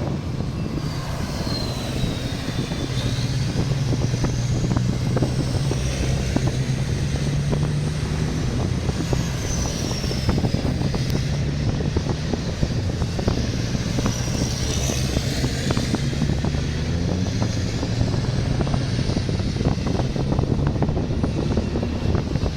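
Race trucks' diesel engines running on a circuit: a steady low drone, with high whistling tones that slide down and up several times as trucks go by.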